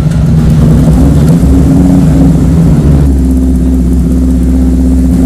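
Classic Honda CB-650 motorcycle's air-cooled inline-four engine running at a steady idle.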